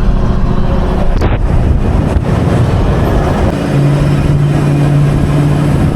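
Car engine chugging up a steep climb under load, with steady road and wind noise. About halfway through, a steady droning engine note comes in and holds.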